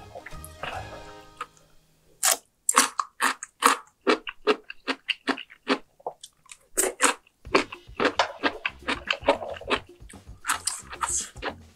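Close-miked eating: wet chewing, crunching and lip smacks as a person eats mouthfuls of spicy dumpling hot pot, in irregular clusters of sharp clicks. Background music fades out in the first second or two.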